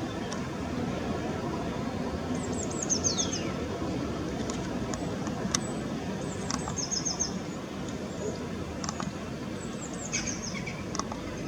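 Garden birds calling: three bursts of short, high, rapid chirps spread across the stretch, the first ending in a falling whistle. Under them runs a steady low background rumble.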